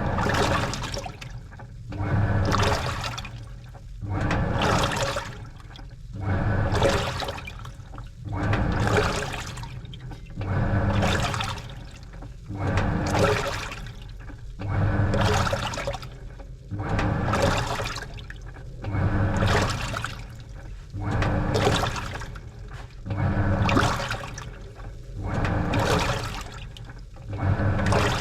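Washing machine agitating a load of laundry in water: the motor hums and the water sloshes in even swells, one about every two seconds, as the wash action turns back and forth.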